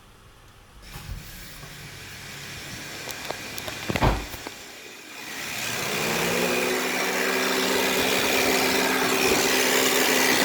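2010 Honda Odyssey power steering pump whining as the AC comes on: after a rising hiss and a loud thump about four seconds in, a whine glides up in pitch and settles into a steady drone. The owner says it is definitely the power steering pump, not the AC, and it comes with the AC's extra load.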